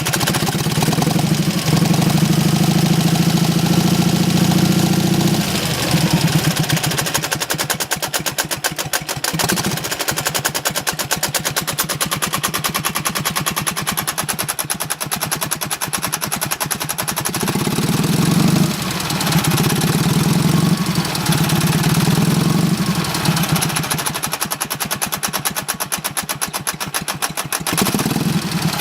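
Dnepr motorcycle's flat-twin engine idling with close, even firing pulses, and raised in speed twice for a few seconds. It carries a knock that the owner places in the area he calls the 'утятница'.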